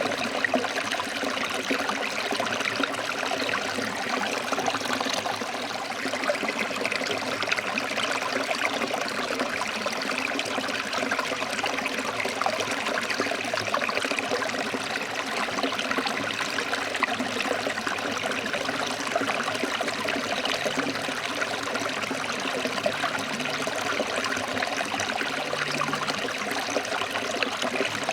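Stream water flowing steadily over rocks, an even, unbroken splashing.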